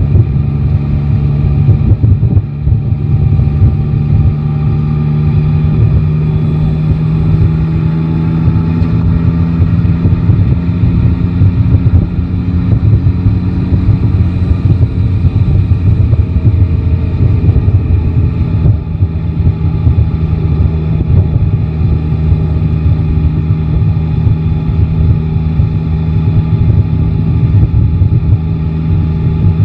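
A motorcycle's three-cylinder engine running steadily at low revs in slow city traffic, its pitch shifting only gently, with no hard revving.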